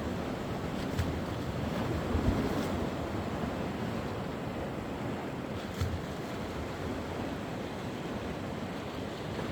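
Sea waves washing onto the shore in a steady rush, swelling about two seconds in, with a few low bumps of wind on the microphone.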